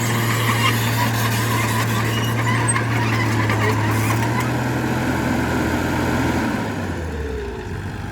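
Heavy earthmoving machine's diesel engine running steadily under load, with scraping and squealing mixed in. About six and a half seconds in, the engine note drops in pitch and fades.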